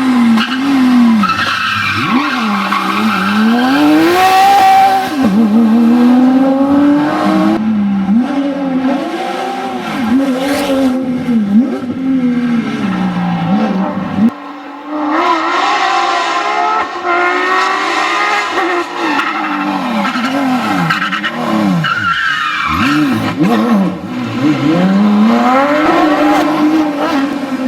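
Porsche 911 GT3 RS flat-six engine at full throttle on a rally stage. The revs rise and fall repeatedly through gear changes and braking. There is an abrupt cut about halfway through to another pass.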